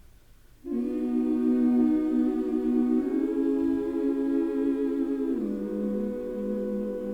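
Slow, wordless humming in held chords, choir-like, coming in about half a second in and shifting to a new chord twice.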